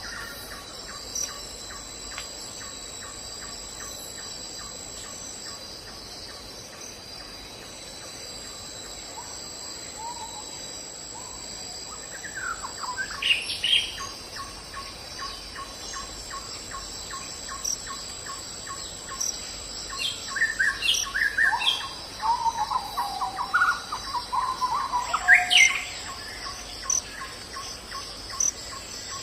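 Forest ambience: a steady high-pitched insect chorus with a regular ticking call running under it. Birds chirp briefly around the middle and again through the last third.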